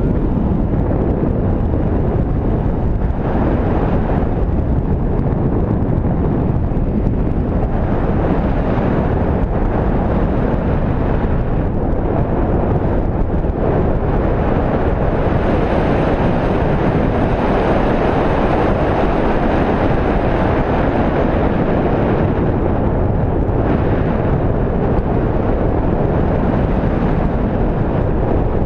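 Airflow rushing over the microphone in flight under a paraglider: a loud, steady wind roar that swells slightly in the middle.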